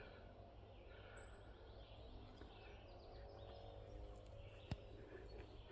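Near silence: faint forest ambience with distant birds chirping, and a single soft click about three-quarters of the way through.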